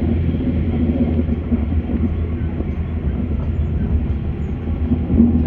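AM class electric multiple unit running at speed, heard from inside the carriage: a steady low rumble of wheels on rail with a constant hum from the train's drive.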